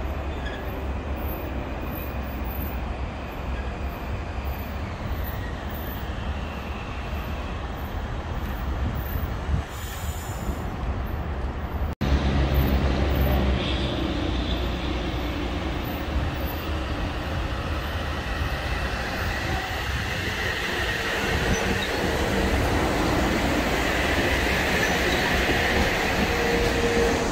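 Metro-North M8 electric commuter trains running through the station, a steady low rumble of the cars on the rails that grows louder after about halfway. In the last third, as a train runs past close by, its wheels squeal high on the rails.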